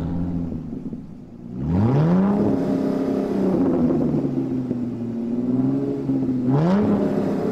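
Car engine revving: a low idle, then a quick rev-up about a second and a half in that is held high, and a second rev-up near the end.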